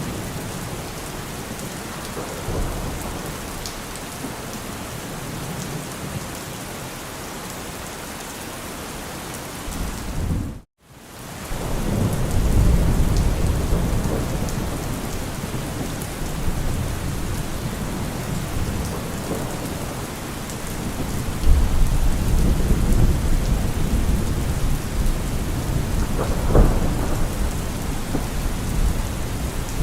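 Heavy rain drumming steadily on a car roof, with low thunder rumbling in, loudest after about eleven seconds and again after about twenty-one. The sound cuts out to silence for a moment about eleven seconds in.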